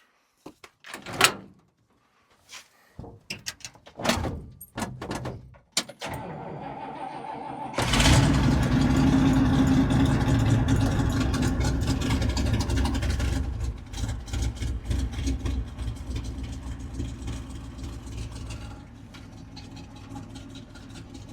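A few knocks and clicks, then a tow truck's engine, which has sat unused for a while, starts readily about eight seconds in. It runs fast and loud at first, then settles to a quieter idle.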